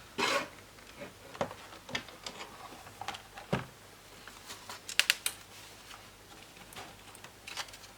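Light clicks and taps of plastic laptop parts being handled during disassembly, scattered and irregular, with a quick cluster of sharp clicks about five seconds in.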